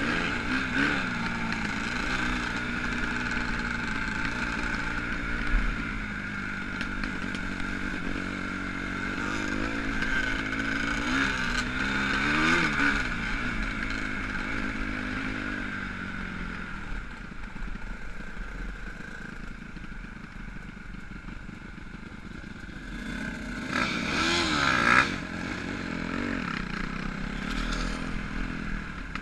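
Motocross motorcycles riding a dirt track, engines revving up and dropping off again and again, louder about twelve seconds in and again near twenty-four seconds.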